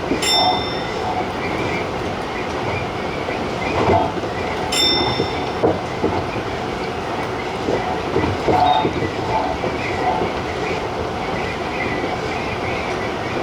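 Tobu 50090-series TJ Liner electric train running at speed: a steady rumble of wheels on rail with scattered knocks over rail joints, and two brief high-pitched rings, one just after the start and one about five seconds in.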